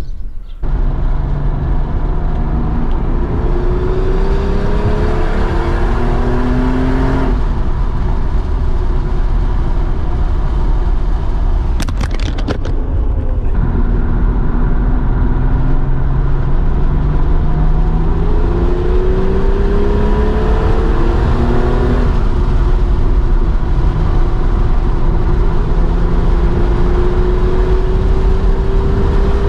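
Porsche 930 Turbo's air-cooled flat-six engine pulling hard up a steep mountain road, its note climbing and then dropping back several times as it works through the gears. A few sharp clicks come about halfway through.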